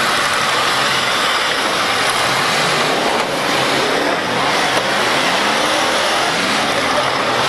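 Demolition derby cars' engines running loud together, with several revving up in rising whines in the second half.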